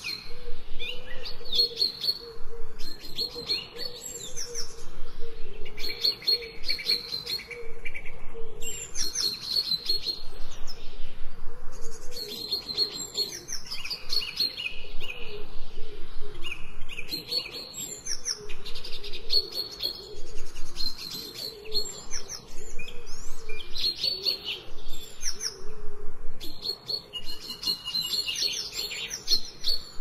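Small songbirds singing: short bursts of rapid chirps and trills that recur every couple of seconds, several birds overlapping.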